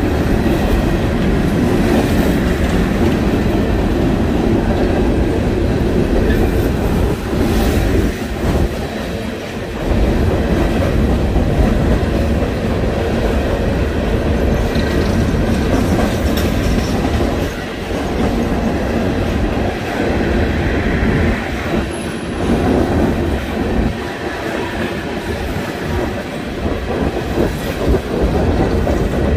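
Freight train cars rolling past at close range, wheels clacking over the rail joints in a steady rumble, with a brief high wheel squeal around the middle.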